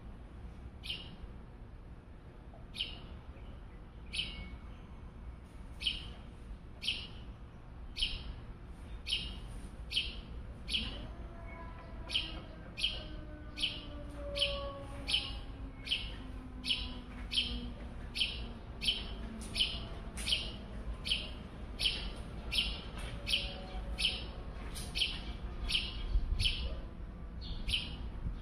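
A bird calling over and over with short, sharp chirps, about one a second at first and quickening to about one and a half a second.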